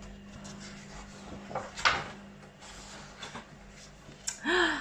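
Soft rustling and rubbing of a picture book's pages being handled, with the loudest rustle about two seconds in, then a brief voice sound near the end.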